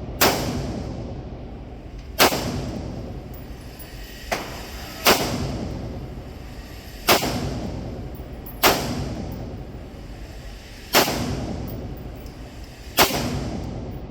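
Handgun fired shot by shot at a slow, steady pace: seven loud reports about two seconds apart, each trailing off in a long echo, with one fainter shot in between.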